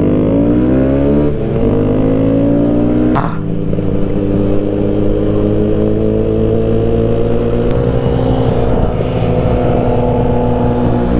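Kawasaki Z125's small single-cylinder engine accelerating under load. The revs climb and fall off at upshifts about a second and a half and three seconds in, then the engine pulls on with its pitch rising slowly before holding steady.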